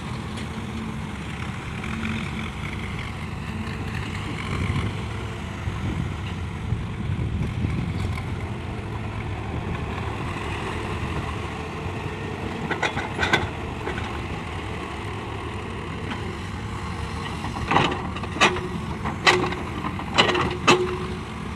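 Heavy diesel machinery running steadily, with a pair of sharp knocks about halfway through and a quick run of several more near the end.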